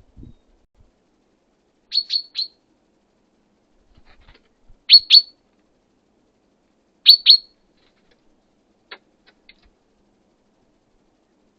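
A small songbird giving short, sharp chirps in quick groups of two or three, a couple of seconds apart, with a fainter group near the end.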